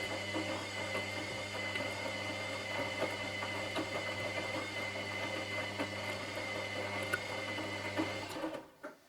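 Washing machine drum motor running through one tumble turn, with a steady low hum and a high whine and light clicks and rattles from the drum, cutting out near the end.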